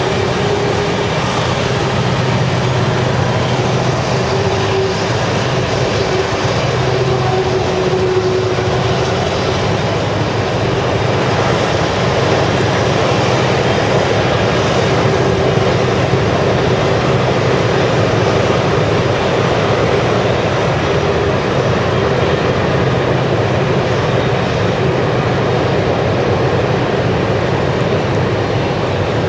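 Model diesel locomotives running on a club layout: a steady engine rumble with a few held tones over continuous running noise.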